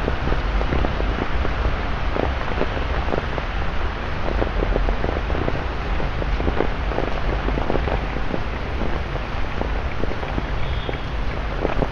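Steady rain on a wet city street over the low rumble of road traffic, with many small raindrop impacts close by.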